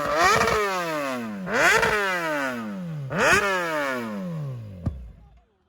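Motorcycle engine revved with three quick throttle blips, each shooting up and then slowly dying back down through the exhaust. A short sharp click comes near the end, and the sound cuts out just after.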